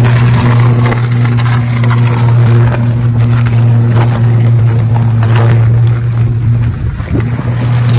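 A 150-kilovolt power line arcing where a fallen branch has shorted it: a loud, steady electrical buzz with a ladder of overtones, shot through with crackling snaps. The buzz wavers and breaks up about a second before the end.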